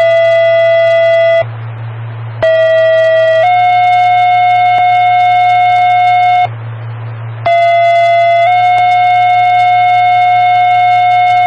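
Two-tone sequential pager alert tones over a fire dispatch scanner: a long steady tone ends about a second and a half in, then after a second of radio hiss a short tone steps up to a longer, slightly higher one, and the same pattern comes again after about seven and a half seconds with a slightly different first tone. The tones set off fire department pagers ahead of a mutual-aid alarm page.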